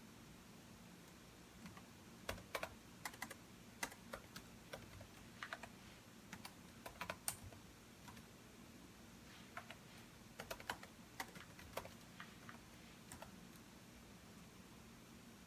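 Faint typing on a computer keyboard: two runs of irregular keystrokes with a short pause between them, then the typing stops a couple of seconds before the end.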